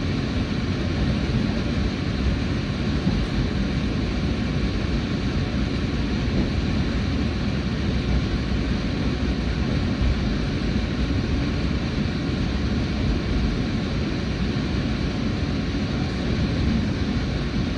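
Steady running noise of the WEST EXPRESS Ginga, a converted 117-series electric train, heard from inside the carriage: a constant low rumble with a faint high whine.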